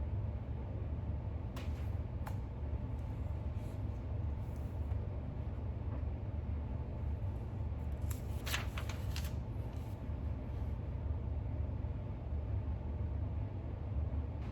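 Steady low room hum, with faint papery rustles and ticks from a book being handled. A short burst of rustling about eight to nine seconds in is a page being turned.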